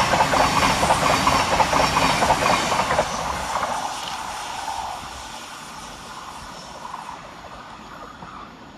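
Thameslink Class 700 electric multiple unit passing through the station, its wheels clicking rapidly over the rail joints. After about three seconds the sound falls away as the train recedes.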